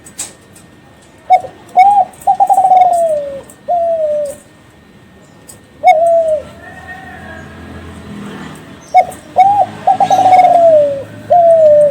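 Kelantan derkuku (a spotted dove line bred for contest song) cooing: two full song phrases, each of two short coos, a long rolling coo falling in pitch, then a final falling coo. A single falling coo comes between them. Faint ticks are scattered throughout.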